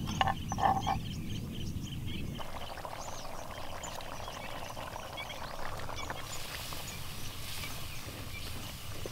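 Birds chirping outdoors: a short high call repeated about three or four times a second, with two louder calls near the start. A low rumble underneath stops after about two seconds, and a hiss comes in during the last few seconds.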